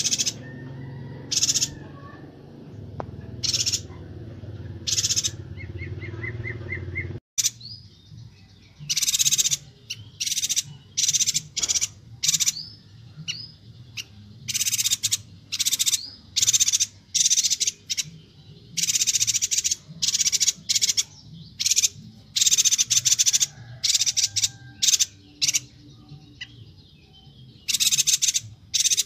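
Chestnut-crested yuhina (Yuhina Kalimantan) calling: many short, high-pitched chirps in quick bursts, coming thicker after about seven seconds in, where the low background rumble cuts off as at a splice in the recording.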